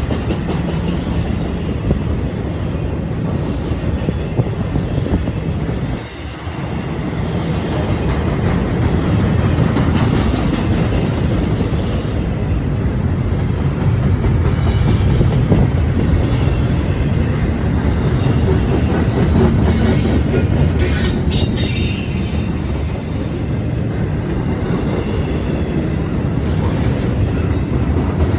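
A train rolling past: a continuous rumble of steel wheels on the rails with clickety-clack over the rail joints. The sound dips briefly about six seconds in, and there are some short high-pitched squeals about two-thirds of the way through.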